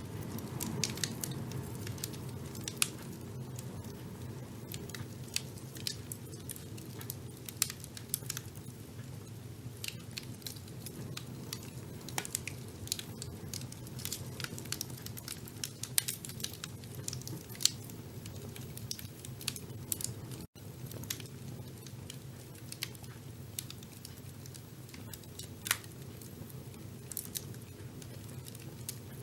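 Fire burning in a fireplace: irregular sharp crackles and pops over a steady low rumble of flames. The sound drops out for an instant about twenty seconds in.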